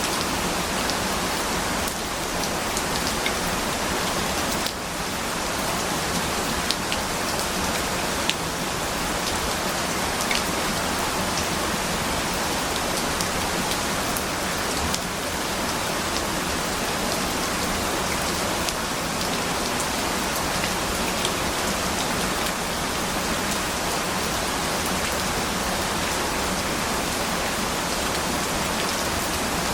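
Steady, even rainfall, with scattered individual drops ticking on a surface.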